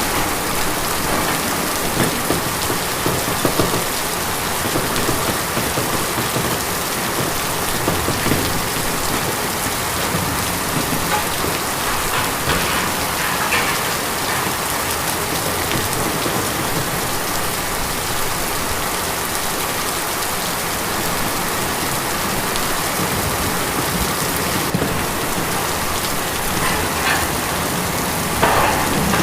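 Steady rain falling on a tin roof, an even hiss peppered with the ticks of individual drops hitting the metal.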